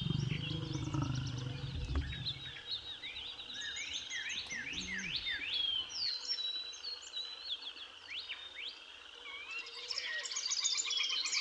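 A chorus of wild birds calling, with many quick chirps and sweeping whistles overlapping throughout. A low rumble sits under the calls for the first two seconds.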